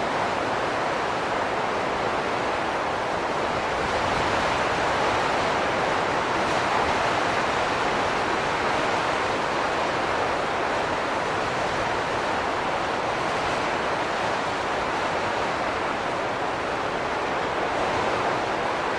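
Wind blowing steadily as a continuous rushing hiss, swelling and easing slightly in strength.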